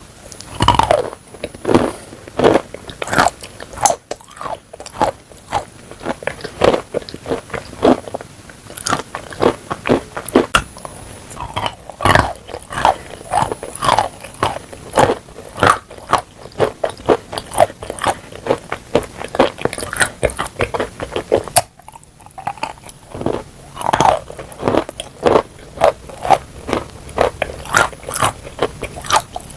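Close-miked biting and chewing of chalk coated in clay paste: a dense run of sharp, irregular crunches, several a second, with a brief pause a little past the two-thirds mark.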